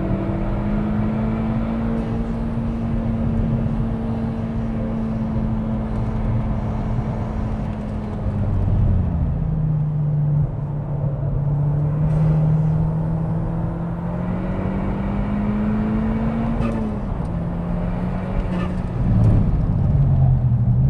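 SEAT Leon Cupra's turbo four-cylinder engine heard from inside the cabin on a race track, running under load over tyre and road noise. The engine note holds, falls about eight seconds in, climbs slowly, then falls again about three-quarters of the way through.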